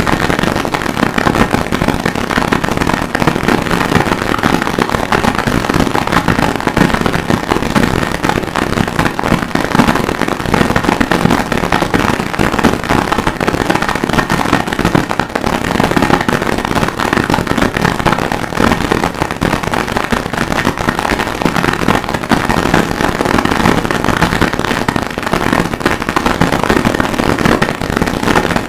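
Harsh noise music: a loud, unbroken wall of distorted crackling static with no steady beat or pitch.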